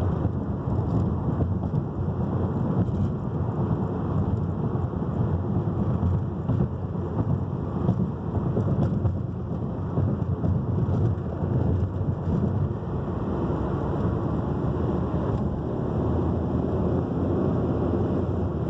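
Steady low rumble of road and wind noise from a car driving on a freeway.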